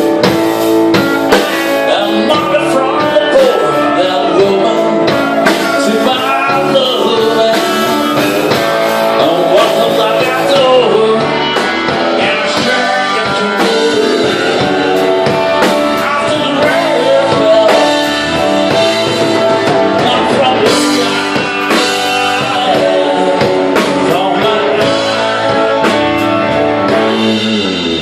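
Live blues band playing a slow blues, with singing over electric guitar.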